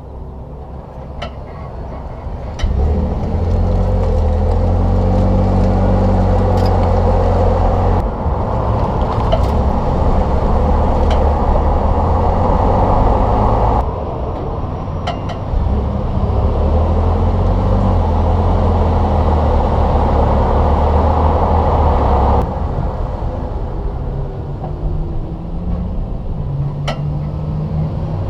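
2021 Ford F-150 PowerBoost hybrid pickup driving. Its twin-turbo 3.5-litre V6 cuts in suddenly a few seconds in, runs steadily with a few changes in pitch, and shuts off near the end. Several short, sharp clicks or knocks come and go throughout, in line with the clunk the owner reports when braking and pulling away from a stop.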